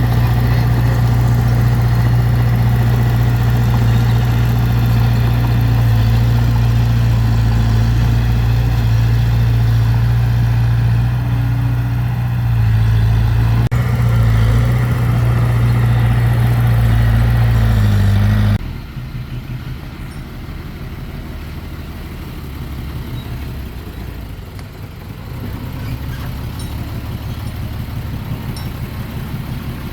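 Heavy diesel engine of earthmoving machinery running steadily with a loud, low drone. About two-thirds of the way through it cuts off abruptly and gives way to a quieter, rougher engine rumble.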